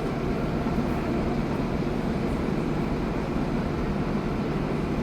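Stationary train idling at the platform: a steady low rumble and hum with a faint steady tone.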